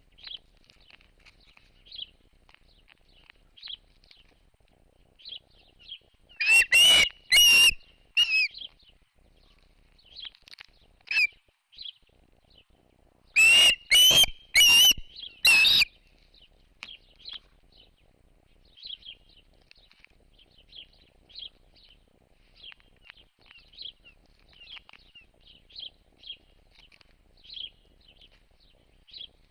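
Birds chirping with short, faint calls throughout, and twice a much louder bird call comes in a quick run of three or four strokes, about a third of the way in and again near the middle.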